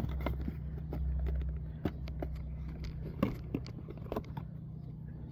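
Cardboard packaging of a new oil filter being opened and handled: scattered clicks, crackles and crinkles, over a steady low hum.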